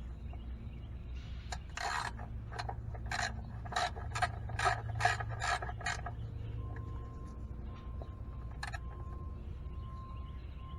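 Hand ratchet and socket clicking in a quick run of about a dozen strokes, roughly three a second, as the oil drain plug is tightened back in until snug. The clicking stops about six seconds in.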